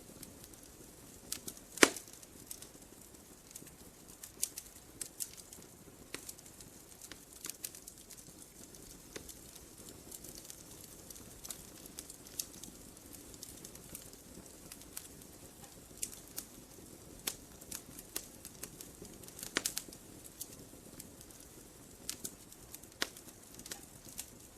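Wood fire burning in a fireplace: irregular crackles and pops over a soft steady rush, with one loud pop about two seconds in.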